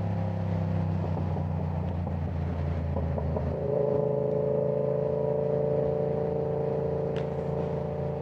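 Yamaha R7 motorcycle's parallel-twin engine running through a loud aftermarket exhaust while riding, heard from a mic inside the rider's helmet. The engine note shifts a little at first, then holds at steady revs from about four seconds in.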